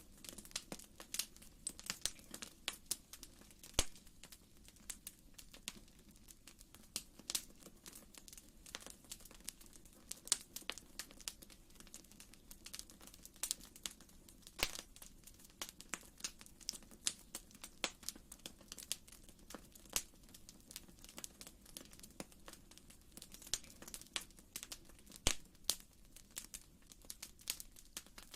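Wood fire crackling in a fireplace: irregular sharp pops and snaps, several a second, over a soft low rush of flame.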